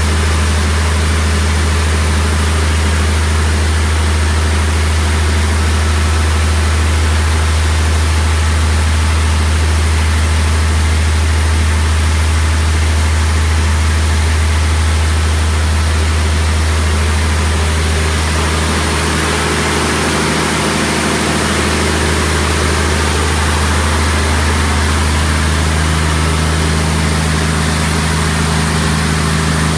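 Caterpillar 3126 turbocharged inline-six diesel engine running steadily on a dynamometer test stand, freshly rebuilt. Its note shifts slightly about two-thirds of the way in.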